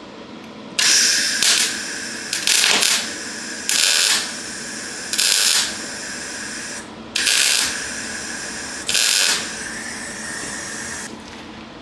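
Electric welder tacking a steel chassis bracket in place: seven short, loud bursts of arc noise about a second or so apart, over a steady hum that starts with the first burst and stops near the end.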